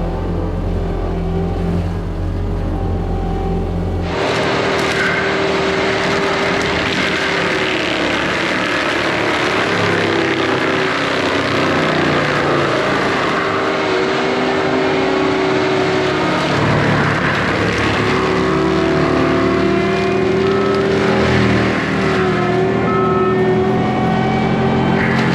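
Diesel engine of a compact machine running steadily. About four seconds in, a forestry mulching head starts working, and a loud, dense grinding noise covers the engine, whose pitch shifts up and down under load.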